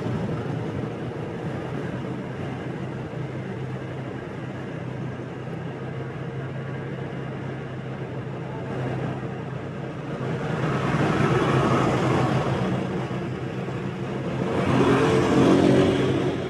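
Motorbike engine running at a steady cruise with road and wind noise. Two louder swells of traffic noise rise and fade, one about ten seconds in and one near the end, as vehicles pass close by.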